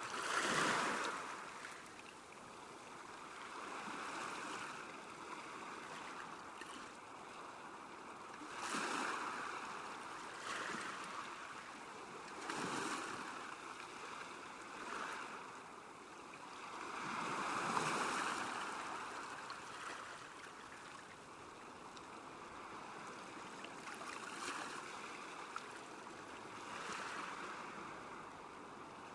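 Small lake waves lapping at the shore: each wash swells and fades every few seconds over an even wash of water, the biggest about half a second in and again past the middle.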